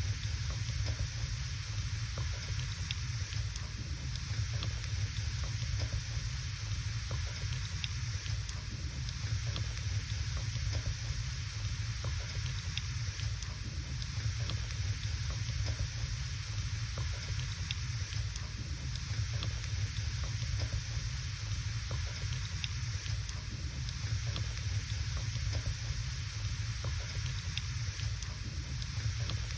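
Wood fire burning in a fireplace: a steady hiss and low rumble, with small crackles and pops scattered throughout.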